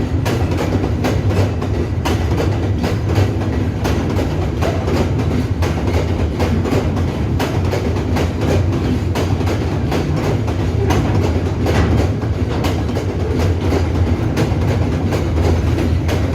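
Ore train's wagons rolling past, the wheels clicking steadily over the rail joints above a continuous low rumble.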